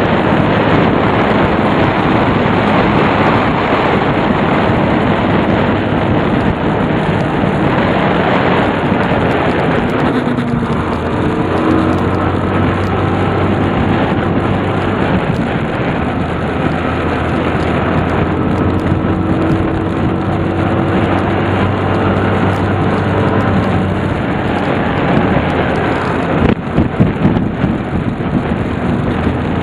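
Tsurugi 150's engine running under way, buried in heavy wind rush on the microphone. About a third of the way in, the engine's steady note comes through more clearly beneath the wind.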